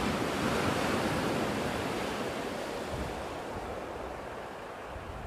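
Storm surf washing in: a rush of water noise that swells within the first second, then slowly fades away.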